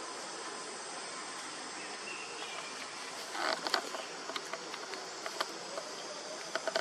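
Steady buzz of insects, with a short rustle about three and a half seconds in and scattered light clicks after it.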